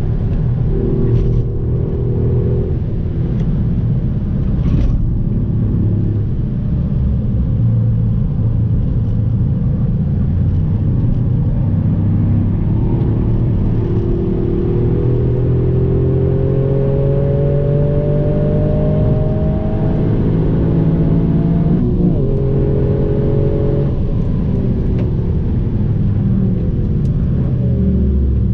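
Toyota Yaris engine and road noise heard from inside the cabin while driving on a race track: the engine note climbs slowly for several seconds, then drops abruptly about two-thirds of the way through and picks up again. There are a couple of brief knocks in the first few seconds.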